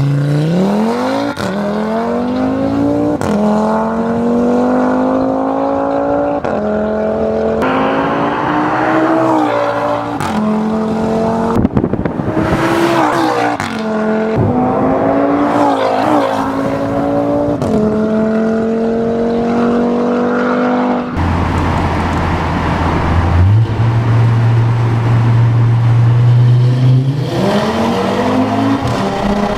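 Audi RS3 8V's turbocharged 2.5-litre inline-five through an Armytrix valvetronic exhaust, accelerating hard: the engine note climbs in pitch again and again, each run cut by a sudden drop at an upshift. Late on it holds a steady low drone, then revs up once more.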